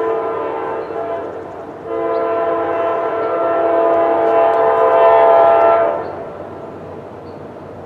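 Locomotive air horn sounding a chord: a blast of about a second and a half, then a long blast of about four seconds that grows louder and cuts off sharply, leaving the steady rumble of the passing train.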